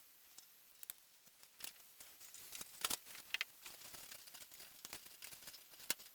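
Light clicks and taps of small wooden kit parts being handled and fitted together on a workbench, with two sharper knocks about three seconds in and near the end.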